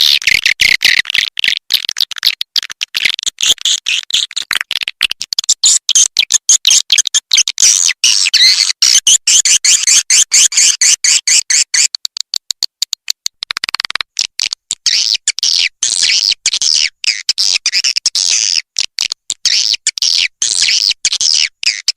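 Swiftlet lure recording: a dense, rapid stream of high-pitched chirping and twittering from edible-nest swiftlets, played to call the birds into a swiftlet house. It thins briefly about halfway through, then carries on.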